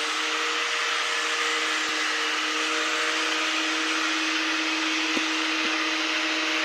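A motor running steadily with an even whirring hiss and a few held tones, with a couple of faint knocks about five seconds in.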